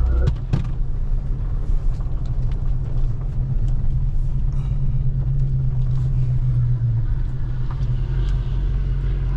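Car driving at a steady speed: a low engine drone with road rumble that swells between about four and seven seconds in.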